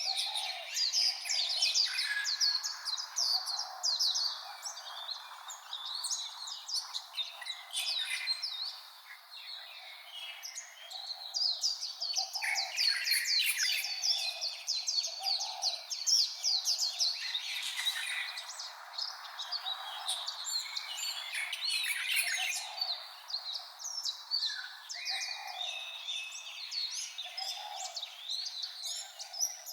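White-eye singing a long, rapid, high twittering song, easing off briefly about ten seconds in before picking up again.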